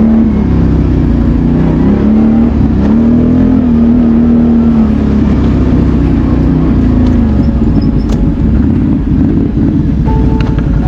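BRP Outlander 650 ATV's V-twin engine running while riding. Its note dips and rises several times as the throttle is worked, and turns rougher and less even in the second half.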